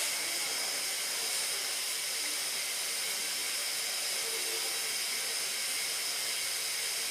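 Steady, even hiss with no breaks.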